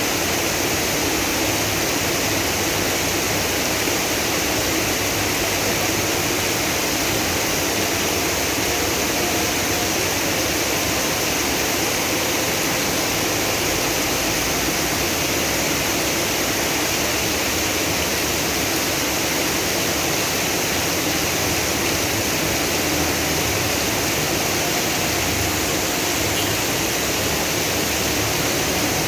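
Heavy rain and rushing floodwater making a steady, even roar with no let-up.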